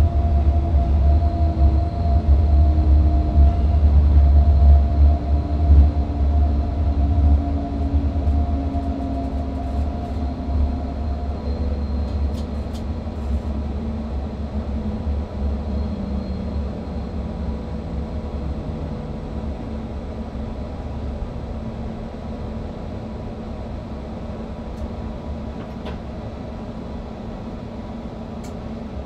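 Train running, heard from the driver's cab: a heavy low rumble with the hum of the electric traction motors. The motor pitch slides downward and the rumble fades over the first two-thirds as the train slows, leaving a quieter steady running sound.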